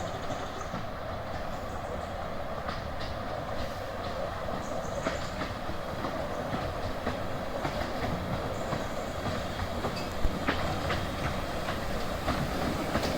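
Miniature railway train running in along the track, its wheels clicking over the rail joints with a steady running noise that grows a little louder as it nears. There is one sharper knock about ten seconds in.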